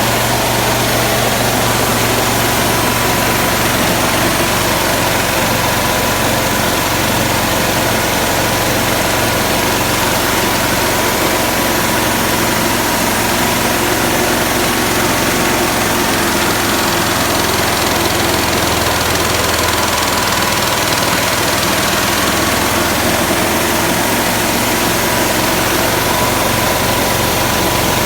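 Honda GX160 single-cylinder four-stroke petrol engine running steadily, driving a coffee huller.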